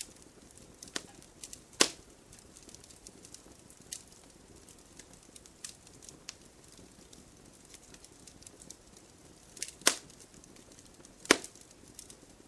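Wood fire burning with a soft steady hiss and scattered crackles and pops, three of them louder snaps about two seconds in and near the end.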